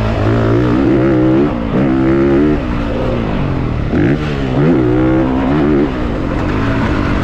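450cc four-stroke motocross bike engine being ridden hard around a track, revving up in several pulls with the throttle chopped between them.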